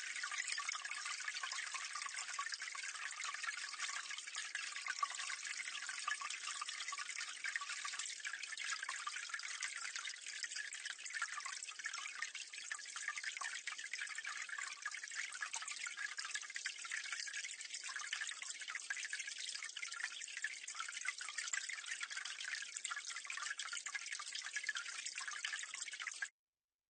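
Water running and splashing into a drain, heard close up: a steady, continuous trickling and splashing with little low rumble, which cuts off suddenly near the end.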